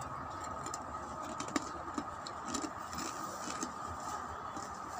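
Sparse, crisp crackles of someone chewing chicharon (fried pork rinds), one sharper crack about a third of the way in, over a steady faint background hum.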